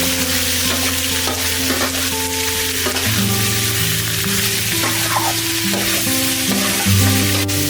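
Food sizzling as it fries in a pan, with a few short scraping strokes of stirring, over background music with long held notes.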